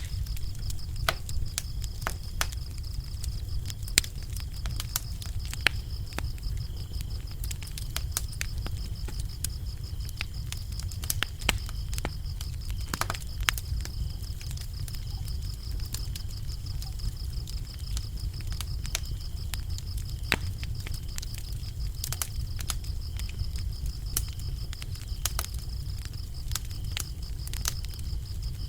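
Wood fire burning in a fireplace: a steady low rumble of flames with frequent sharp, irregular crackles and pops. Crickets trill steadily and high-pitched behind it.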